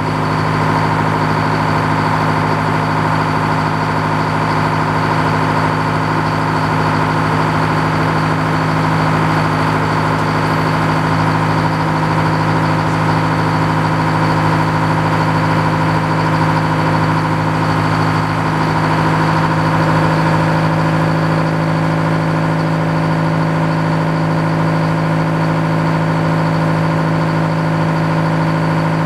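Gasoline engine of a sawmill running at steady speed, with a steady high whine above the engine note and no change in pitch or level.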